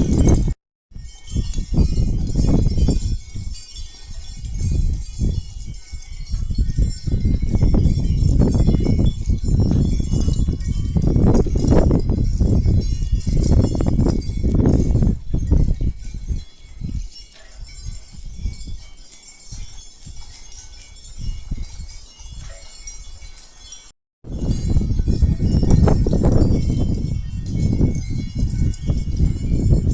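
Chimes ringing over a heavy, gusting low rumble like wind on the microphone. The sound cuts out completely twice, briefly, about half a second in and again about 24 seconds in.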